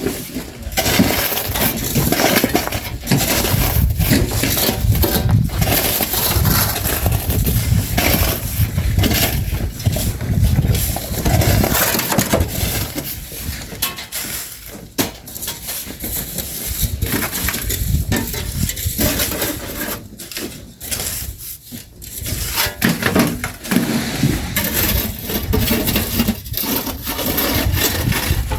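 Shovels repeatedly scraping and digging into sand, with gritty crunches and metallic clinks, over a steady low rumble.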